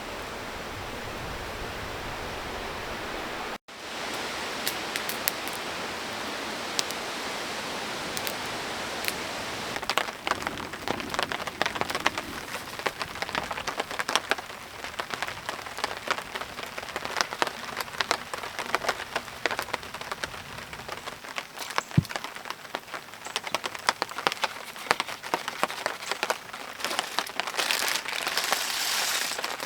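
Rain pattering: a dense, irregular patter of drops. A steadier hiss for the first few seconds breaks off suddenly before the patter.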